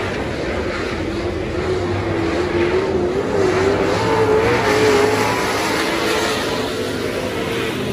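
Super stock dirt-track race car engines running, their pitch rising and falling in a steady wavering drone.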